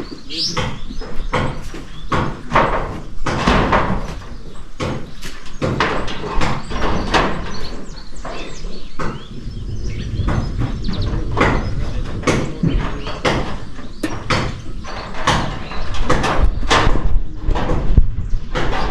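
Repeated sharp knocks and bangs, about two a second, going on steadily.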